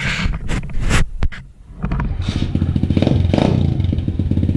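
SSR 125 pit bike's air-cooled single-cylinder four-stroke engine on its stock exhaust: a few clattering knocks, then the engine starts about two seconds in and runs with a fast pulsing beat, blipped twice. It is pretty loud already.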